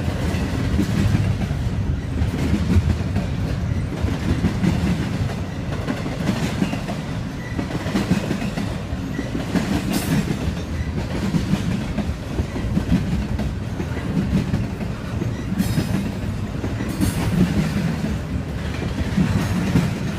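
Intermodal freight train rolling past: a steady low rumble with the wheels clicking over the rail joints, and a couple of brief high-pitched squeals around the middle and later on.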